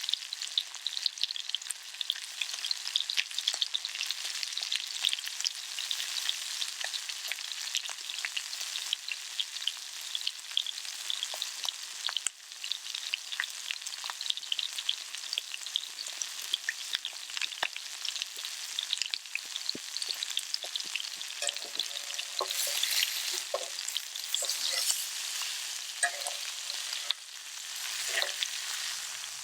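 Food frying in a cast-iron skillet over a campfire: a steady crackling sizzle with many small pops, surging louder about two-thirds of the way through.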